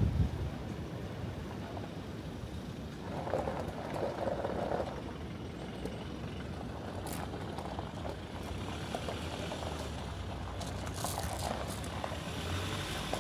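A vehicle engine running low and steady.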